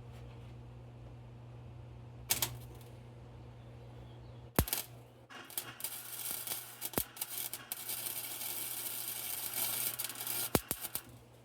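Electric arc welding: a low steady hum of the welder, then, after a sharp click about four and a half seconds in, the arc crackling and sputtering for about six seconds before it stops.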